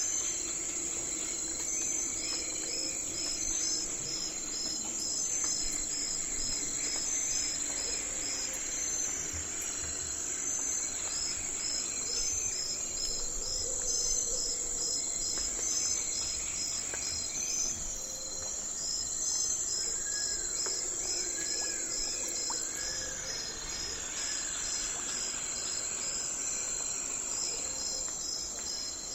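Night forest ambience of crickets and other insects chirping steadily, a continuous high drone with evenly repeating pulsed trills. About two-thirds of the way in, a bird gives four short arched calls.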